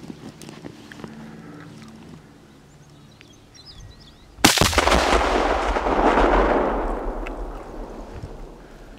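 A 4 lb Shockwave binary exploding target detonating when struck by a Mosin-Nagant rifle bullet: one sudden, very loud blast about four and a half seconds in, followed by a deep rolling rumble that fades over about three seconds. A few faint bird chirps come just before it.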